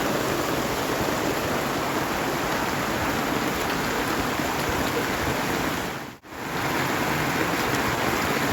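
Steady noise of rushing water, dropping out for a moment about six seconds in.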